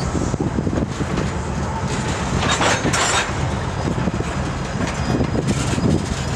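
Train of empty intermodal spine cars rolling slowly past, a steady low rumble of wheels on rail, with a brief hiss about two and a half seconds in.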